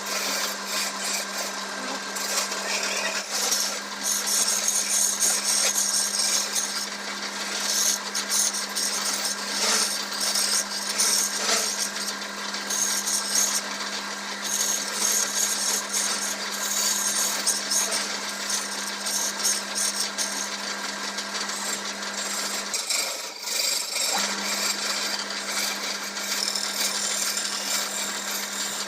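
Wood lathe running with a steady motor hum while a turning tool cuts into spinning black teak, a continuous scraping, rasping sound of shaving wood. The hum and cutting briefly drop away for about a second roughly three-quarters of the way through.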